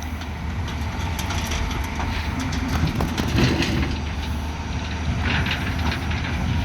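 Heavy diesel earthmoving machinery running steadily with a deep rumble, with scattered metallic clanks and knocks and a couple of brief louder surges.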